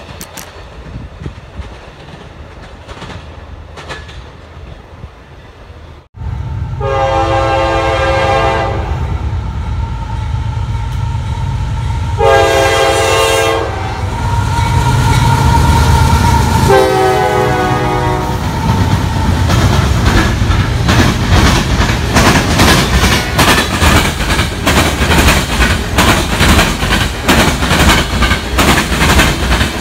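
A CSX freight locomotive sounds its air horn in three separate blasts as it approaches, over the low rumble of its diesel engine. From about twenty seconds in, the freight cars' wheels clack in a quick steady rhythm over the rail joints of the diamond crossing. Before the horn, a fainter rumble of a departing Amtrak passenger train.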